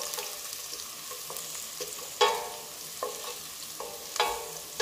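Onion and garlic sizzling in hot oil in a stainless steel pot while a wooden spatula stirs and scrapes them. Light knocks come through the stirring, and two louder knocks, about two seconds in and near the end, leave the steel pot ringing briefly.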